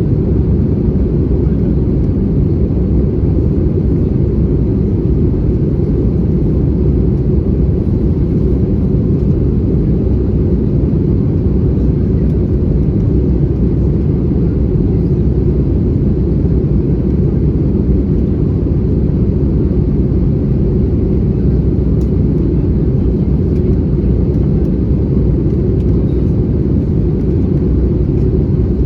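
Steady in-flight cabin noise of an Airbus A320-214 heard from a window seat: a constant deep rumble of the CFM56 engines and the airflow over the fuselage.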